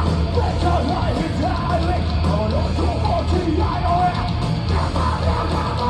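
Live rock band playing loudly with a heavy, booming low end, while a vocalist shouts and sings over it.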